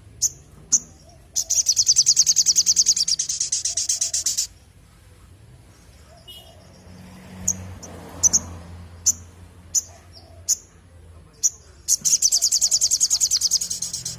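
A sogon (sogok ontong) bird singing: short, sharp, high chirps, and two long, fast, high trills of about three seconds each, one soon after the start and one near the end.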